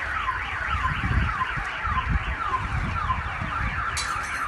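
Car alarm sounding a repeated falling wail, about two sweeps a second, over a low rumble, with a brief hiss near the end.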